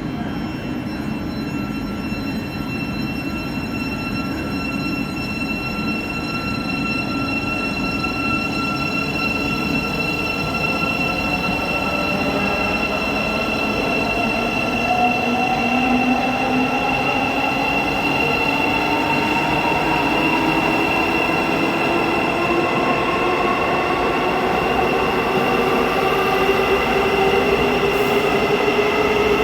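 Electric multiple-unit train's traction motors whining over a steady electrical hum, the whine climbing steadily in pitch through the second half as the train accelerates away.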